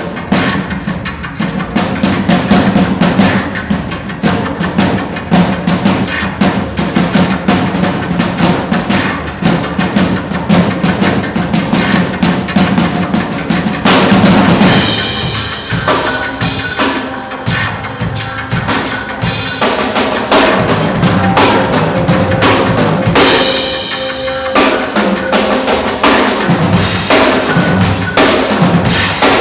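Percussion-driven music: a fast, even drum beat over a held low tone. About halfway through a crash brings in brighter held tones while the drumming goes on.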